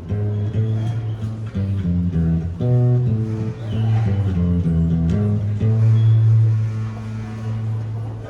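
Instrumental guitar music with a strong bass line playing changing notes, with no singing.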